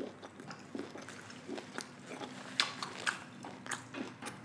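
A person chewing food, with scattered short wet mouth clicks and smacks.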